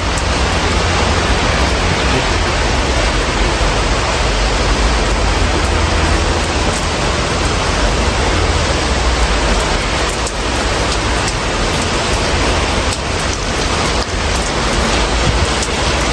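Steady rain heard through an open window: an even hiss with a few scattered drop ticks and a low rumble underneath.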